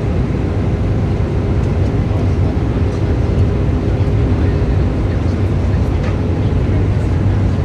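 Steady cabin noise of an Airbus A318 in flight, its CFM56 jet engines and the rush of air over the fuselage, heavy in the low range with a faint steady hum above.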